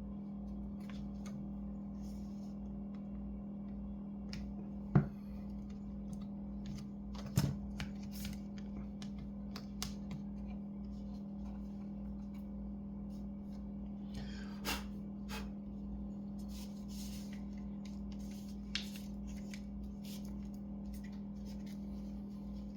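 Sparse small clicks and taps of hands and small tools handling a laptop's internal parts, over a steady low hum. The sharpest click comes about five seconds in.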